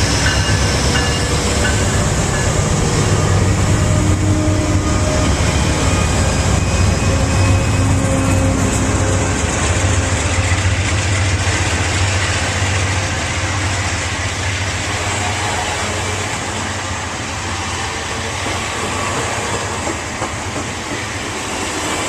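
Train running past: a steady rumble of wheels on rail with a low drone, easing off slightly in the second half.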